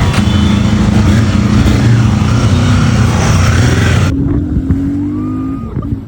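Royal Enfield Guerrilla 450's single-cylinder engine and exhaust running under way, loud with a broad rushing noise over the engine note. About four seconds in, the rushing cuts off suddenly, leaving a quieter, steady engine note that rises slightly.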